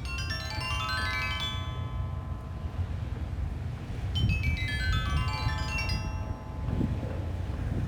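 Sanukite stone xylophone (lithophone) tuned to 432 Hz, played in two quick descending pentatonic runs of bell-like ringing notes, the second about four seconds in. Steady low wind noise runs underneath.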